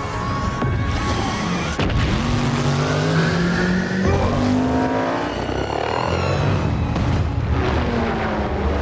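Film sound mix of vehicle engines revving hard, rising in pitch a few seconds in, with score music underneath.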